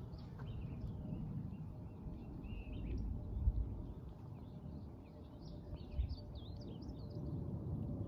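Several birds singing and calling, with short chirps and warbled notes that grow busier in the second half. A low rumbling noise runs underneath, with two soft thumps.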